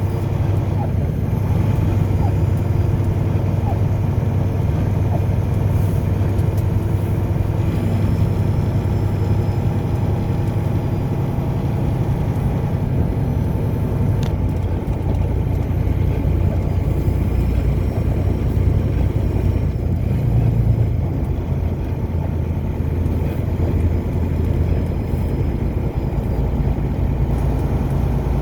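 Car driving at a steady speed: continuous low engine hum and tyre rumble on the road.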